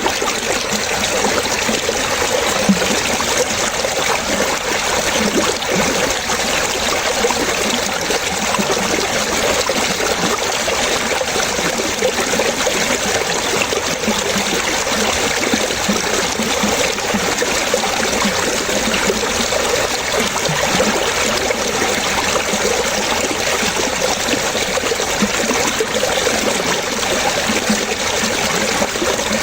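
Running water trickling and splashing steadily, with no pauses.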